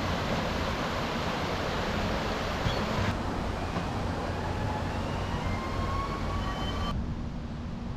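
Steady rushing outdoor noise, with faint high whistles about halfway through. The sound changes abruptly twice.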